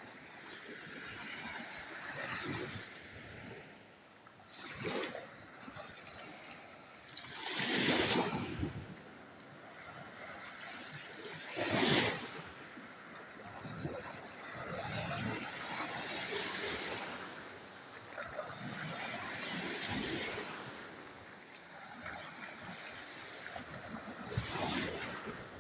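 Surf washing onto a sandy beach: a steady rush of waves that swells and ebbs, with two louder crashes about a third and halfway through.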